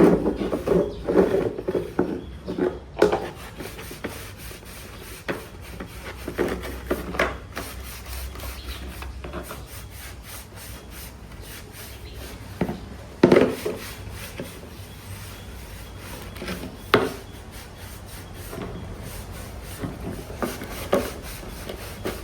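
Hand work on parts: irregular scraping and rubbing strokes, busiest in the first few seconds, with a couple of sharp knocks about 13 and 17 seconds in.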